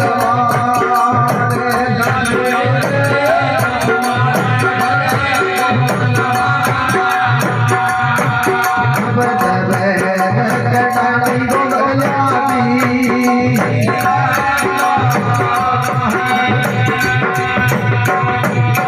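Live Rajasthani devotional bhajan music, apparently an instrumental stretch: a steady hand-drum beat under a continuous fast rattle of small percussion, with a sustained melody running over it.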